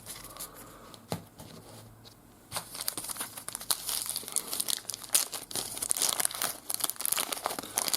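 Trading card pack wrapper crinkling as it is torn open and handled, starting about two and a half seconds in after a quieter stretch with a single click near one second.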